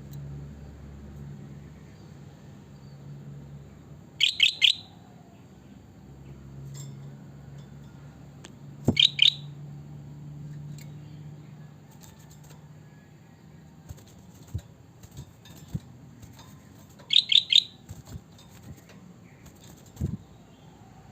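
Kutilang (sooty-headed bulbul) giving three short bursts of three or four quick whistled notes, several seconds apart. Light knocks come in between.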